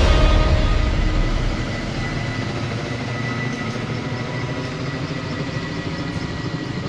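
Kamov Ka-32 helicopter running: a steady rush of rotor and engine noise with a thin, steady high whine.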